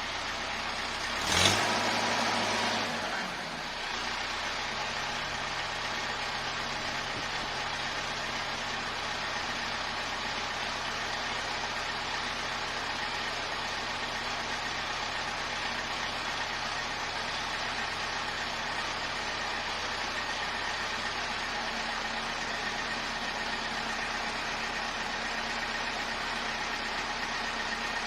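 Tractor engine running steadily, as it does when driving a tractor-mounted brick crane. About one and a half seconds in there is a loud burst that falls away over about two seconds.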